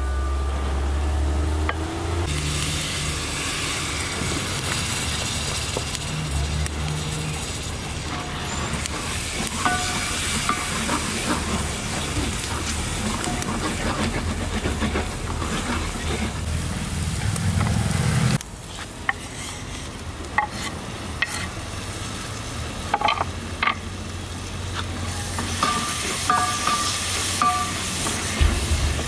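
Thick onion-tomato masala frying and sizzling in oil in a hammered metal pot while a wooden spatula stirs and scrapes it. A low rumble underneath cuts off abruptly about two-thirds through, after which the spatula's knocks and scrapes against the pot stand out as sharp clicks.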